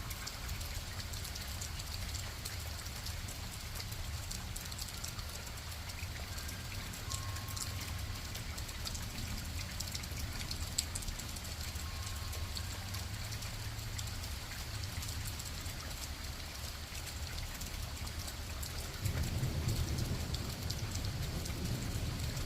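Steady rain, with a patter of many small drops and a low rumble underneath. About nineteen seconds in, the low rumble swells louder.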